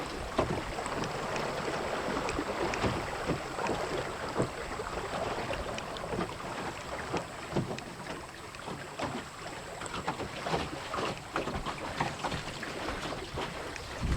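Water rushing and splashing against the hull of a small wooden Melonseed sailing skiff under way in strong wind, with many small sharp slaps. Wind buffets the microphone.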